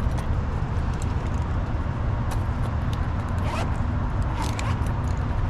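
Steady low rumble with a few short scrapes and clicks of metal parts being handled, as panels and components of a shut-down air-conditioning unit are worked on.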